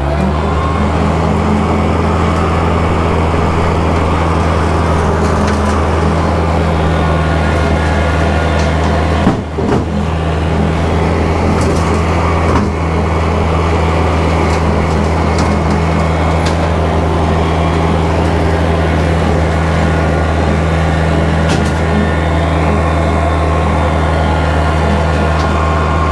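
Kubota tractor's diesel engine running steadily at working speed while bush hogging, with two brief knocks in the middle.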